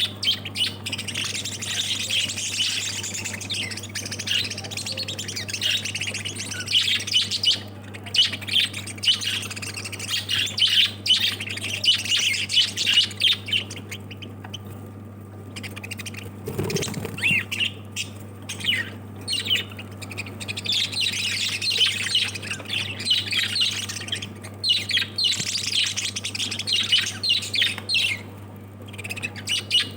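Lovebirds chattering and squawking, many rapid calls overlapping, with a brief lull about halfway through. A steady low hum runs underneath.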